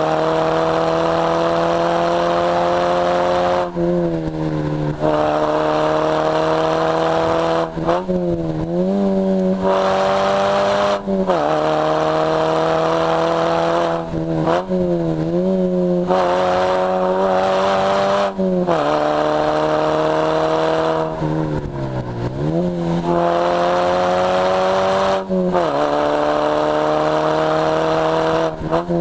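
Lotus Elise S1 111S's 1.8-litre Rover K-series VVC four-cylinder running under steady load, its note holding or rising slowly. About every few seconds it is broken by a brief dip where the pitch falls and picks up again as the throttle is lifted or a gear is changed. Heard from the open cockpit with wind rush.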